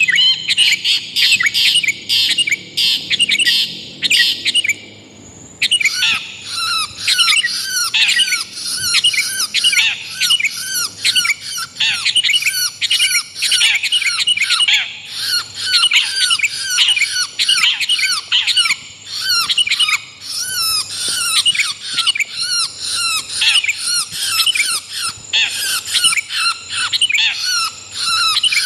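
Bird-lure recording of long-tailed shrike and sooty-headed bulbul calls mixed together. It opens with rapid, harsh chattering for about five seconds, then abruptly changes to a dense run of quick swooping notes, several a second, that carries on unbroken.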